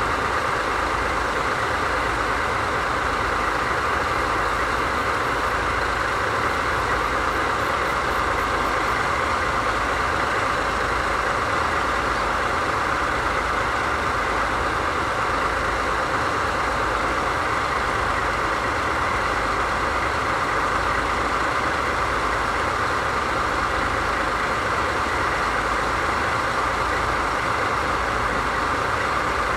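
DD51 diesel-hydraulic locomotive standing with its diesel engines idling: a steady, even running sound with a low throb underneath.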